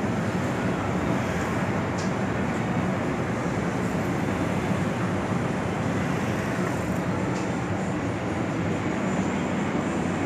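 Arge Max 50 cm wall fan running, its blades giving a steady, even rush of air.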